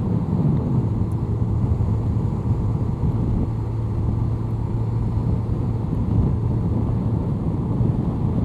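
2002 Honda CBR1100XX Blackbird's inline-four engine running steadily at cruising speed, a low drone with road noise, heard from the rider's position.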